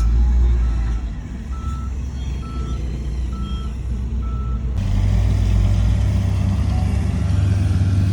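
Diesel engine of heavy earthmoving equipment running, with a reversing alarm beeping about once a second. About halfway through the beeping stops and the engine sound jumps to a louder, steadier rumble.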